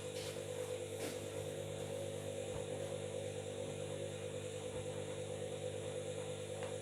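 Washing machine running at a steady speed, its drum motor giving a constant hum with no change in pitch.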